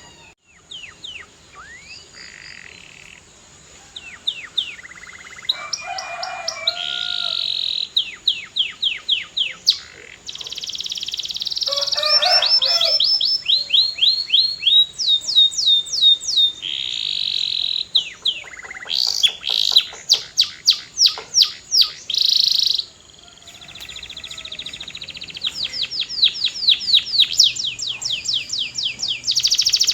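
Male canary singing: phrase after phrase of fast trills made of repeated downward-sweeping notes, with a short break about three-quarters of the way through.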